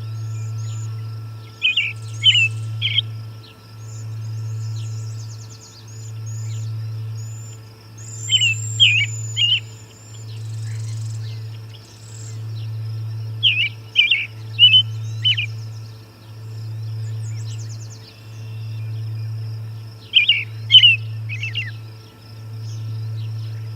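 A songbird sings a short phrase of quick, clear notes four times, roughly every six seconds, with fainter high chirps from other birds around it. Under it runs a low hum that swells and fades about every two seconds.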